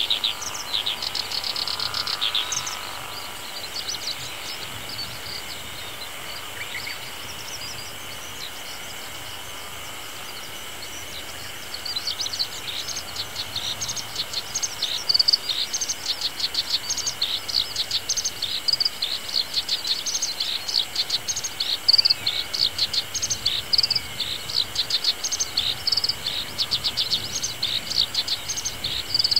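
Black-browed reed warbler singing a fast, high run of chattering notes. It sings briefly at the start, pauses, and then sings continuously again from about twelve seconds in.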